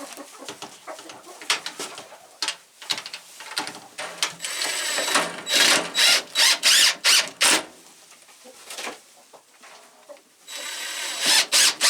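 Cordless drill driving screws into wood. The motor runs steadily for about a second with a thin whine, then gives a string of short trigger bursts as the screw is seated. The same run-then-bursts pattern comes twice, with small handling clicks before it.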